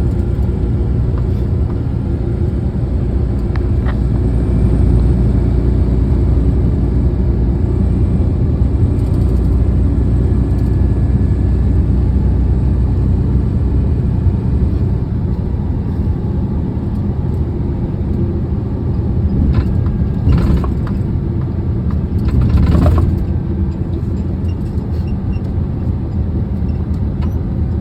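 Steady low rumble of a big truck's engine and road noise heard from inside the cab while driving, with two brief louder knocks near the end.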